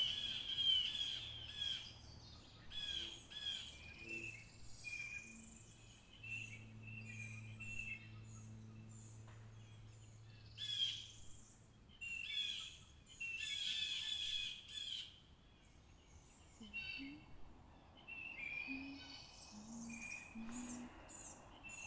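Woodland birds singing, short chirping phrases repeated again and again with brief gaps between them.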